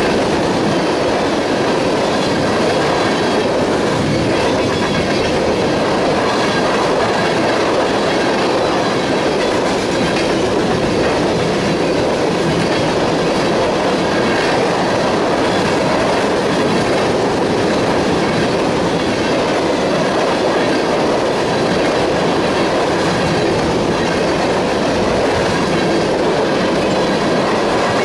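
A freight train of empty oil tank cars rolling past, its steel wheels clattering steadily over the rails.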